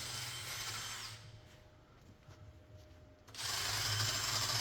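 Power tool working on the old exhaust under the car, running for about a second, stopping, then running again louder and steadily from about three and a half seconds in.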